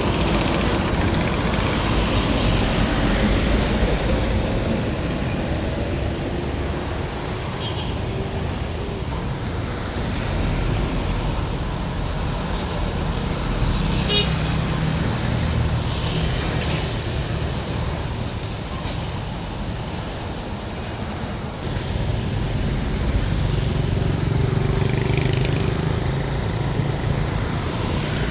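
Road traffic with heavy diesel trucks driving past: steady engine rumble and tyre noise that swells as vehicles go by, about halfway through and again near the end.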